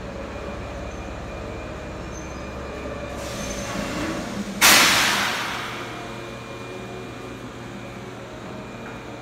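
Hokuriku Railroad Asanogawa Line electric train pulling into an underground station and stopping: a low running rumble fades out, then about four and a half seconds in a sudden loud hiss of released air, the brakes venting as it halts, dies away over a second and a half, leaving a steady hum.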